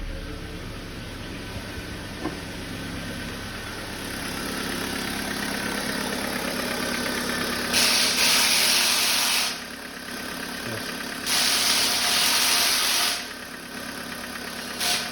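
Kia Forte four-cylinder petrol engine idling steadily on a cold start, running quietly with a light ticking. From about eight seconds in, three loud spells of high hiss come and go over the engine sound.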